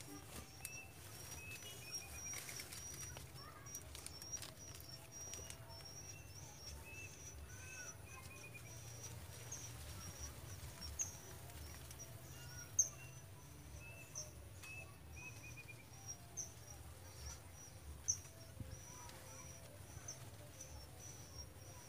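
Birds chirping: a steady run of short, high calls, with a few lower arched calls now and then. A few brief sharp clicks stand out, the loudest about halfway through.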